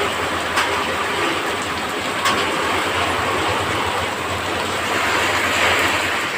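Heavy rain falling, a steady dense hiss with a low rumble underneath and a couple of sharp taps in the first few seconds.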